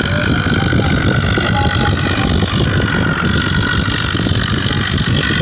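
A motor vehicle's engine running steadily under a heavy, continuous rumble, with no change in pace.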